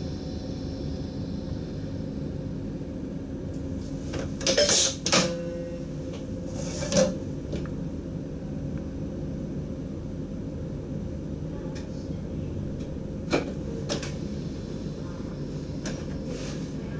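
Steady low hum of a DDZ double-deck train's driving cab, broken by several short clicks and knocks, the loudest pair about four to five seconds in and another near the middle.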